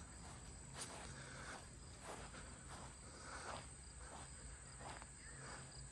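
Faint, steady high-pitched chirring of crickets, with soft scuffs every second or so.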